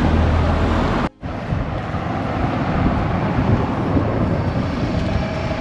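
Steady outdoor noise, a low rumble under a hiss, with a brief dropout about a second in.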